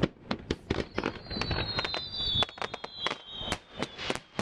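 Fireworks going off: a quick, irregular string of sharp cracks and bangs, with a thin whistle sliding slowly down in pitch behind them.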